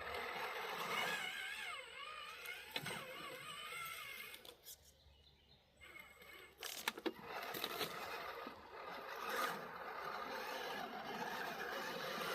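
Small electric RC truck motor and gears whining, the pitch rising and falling with the throttle. It drops off for about a second and a half, a few sharp clicks come about seven seconds in, and then it runs on steadily.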